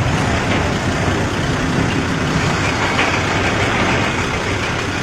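Steady motor vehicle noise: low engine rumble under an even wash of road noise.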